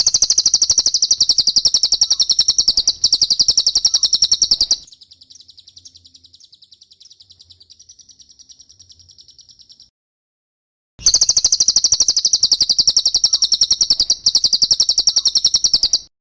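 Cililin singing: a rapid, high trill of quickly repeated notes. It runs loud for about five seconds, turns softer for about five more, stops for about a second, then comes back loud.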